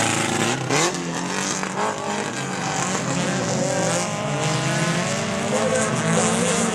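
Several autocross race cars' engines running hard during a heat, their pitch rising and falling over and over as they accelerate and lift off.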